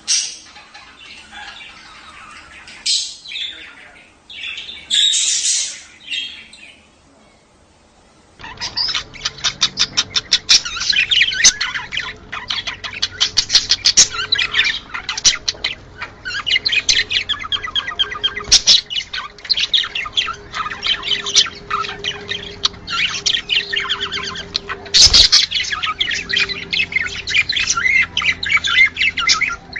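Budgerigars calling: a few separate squawks and chirps at first, then, after a brief lull about eight seconds in, dense flock chatter of rapid high chirps and warbles that keeps going.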